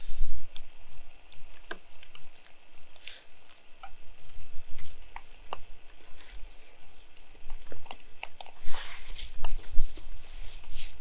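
A person chewing a bite of cheese-and-chicken tortilla, with small wet mouth clicks and a breathy exhale near the end, over wind rumbling on the microphone.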